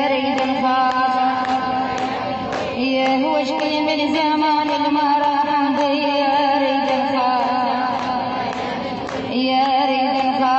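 A woman's voice chanting an Arabic lament poem in the Iraqi mullaya style, drawing out long held notes with a wavering ornamented pitch. A new phrase begins about three seconds in, and another near the end.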